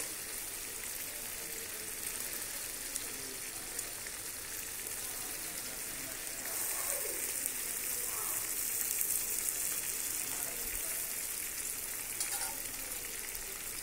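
Stuffed pointed gourds (potol) sizzling steadily as they shallow-fry in hot oil in an aluminium kadai, being browned lightly. A metal spatula turns them, with a few faint clinks. The sizzle grows louder about halfway through.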